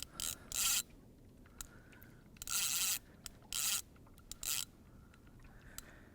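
Fishing reel rasping in short bursts, five in all, the longest about half a second, as line is worked against a strong hooked fish.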